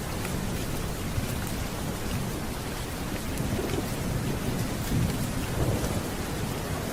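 Steady heavy rain with scattered sharp drop ticks, and a low rumble of distant thunder swelling and fading in the middle.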